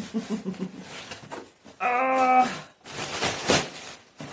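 Plastic wrapping and cardboard packaging of a boxed artificial Christmas tree rustling and tearing as it is pulled open. A short wordless vocal sound, held for about half a second, comes about two seconds in, and a sharp burst of rustling follows about a second later.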